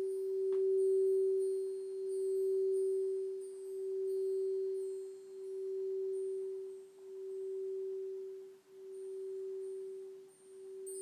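Alchemy crystal singing bowl sustaining one pure tone, its loudness wavering in slow, even swells that gradually spread further apart. Faint high tinkling chime notes sound over it.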